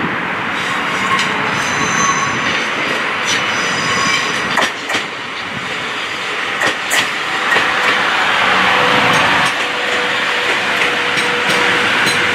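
Train running along the track, its wheels clicking irregularly over rail joints, with brief high-pitched wheel squeals about two to four seconds in.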